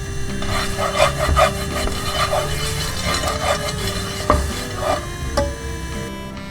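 A kitchen utensil stirring and scraping in a bowl: quick repeated strokes that start about half a second in and stop near five seconds, over soft background music.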